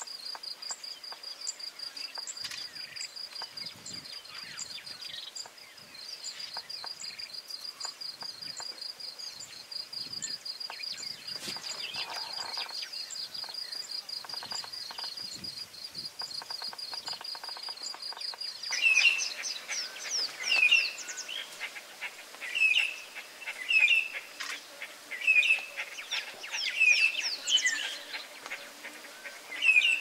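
A steady high insect trill that stops suddenly about two-thirds of the way in, followed by a bird calling over and over in short, loud chirps, roughly one a second.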